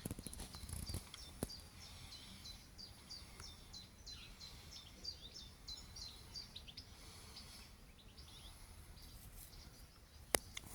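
A small bird chirping faintly: a quick series of short high notes, several a second, running for about five seconds and then stopping. A single sharp click comes near the end.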